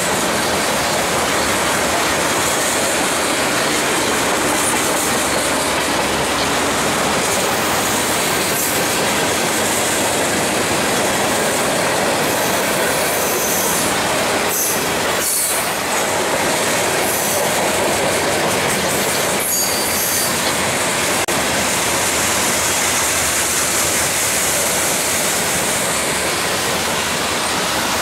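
A freight train's cars rolling past at close range: a steady rumble of steel wheels on the rails, with a few clicks at rail joints and a faint high wheel squeal.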